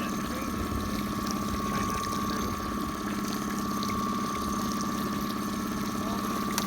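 A small motor running steadily, a constant hum with a low and a higher steady tone, with faint light rustling over it.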